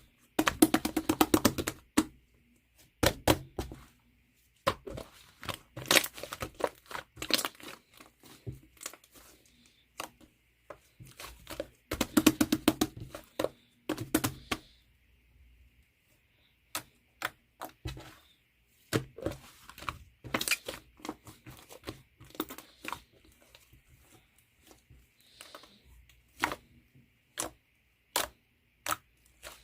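Slime being squeezed and pressed by hand, crackling and popping in runs of rapid clicks, with denser bursts near the start and about halfway through.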